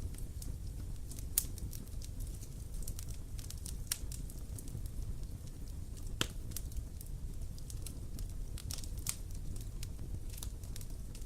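Wood campfire crackling: scattered sharp snaps and pops over a steady low rumble of the burning fire, with two louder pops, one early on and one about six seconds in.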